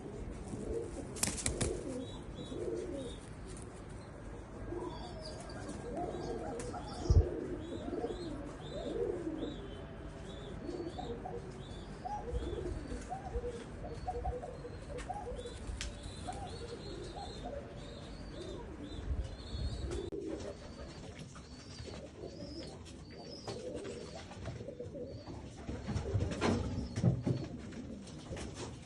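Fancy pigeons cooing over and over, with a line of short high chirps above them. A few sharp knocks or wing claps come through, the loudest about seven seconds in.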